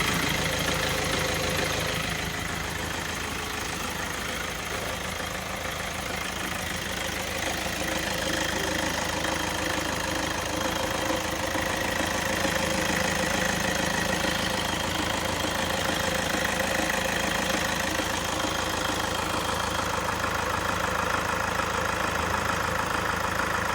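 Toyota Innova engine idling steadily, with no steering squeak standing out.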